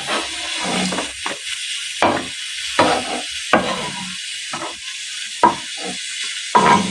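Pressure cooker hissing steadily as steam escapes under full pressure, with short, irregular knocks and scrapes of kitchen handling about once a second.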